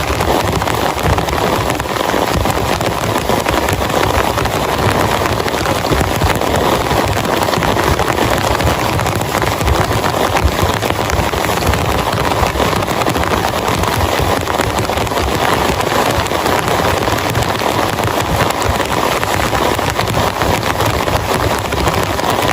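Heavy rain falling steadily and hard, an unbroken dense hiss with many individual drop hits.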